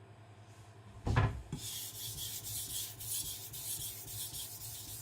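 A short knock about a second in, then a gyuto's SRS-15 powder-steel edge stroked quickly back and forth on a wet Naniwa Professional 1000 whetstone: a rhythmic, gritty rasp of several strokes a second. These are light passes to flip the burr.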